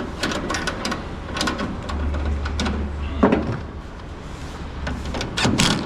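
Scattered clicks and knocks of metal parts being handled while a truck bedside panel is fitted in place, with a louder knock about three seconds in and a low hum for about a second and a half around the middle.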